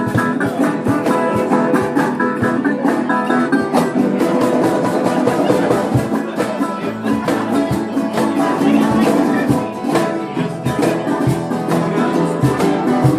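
Live acoustic jam: plucked string instruments, guitar among them, playing a tune with a steady strummed rhythm.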